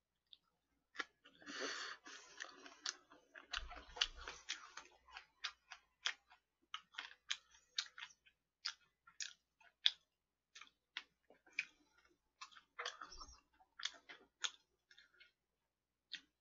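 A person chewing crispy fried chicken close to the microphone: a long run of irregular small crunches and wet mouth clicks, about two or three a second.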